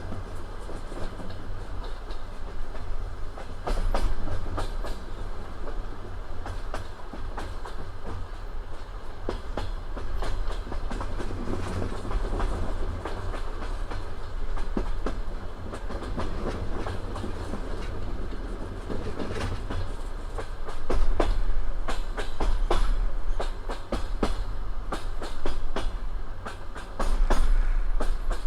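Passenger train carriage rolling on the rails, its wheels clattering rhythmically over rail joints over a steady low rumble. From about two thirds of the way through, the knocks come louder and closer together as the train runs into a station.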